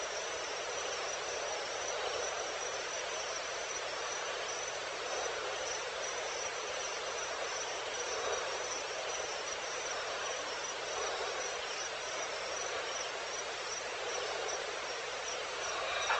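Evening insect chorus: a high, evenly pulsing chirp, cricket-like, over a steady hiss of many more distant insects.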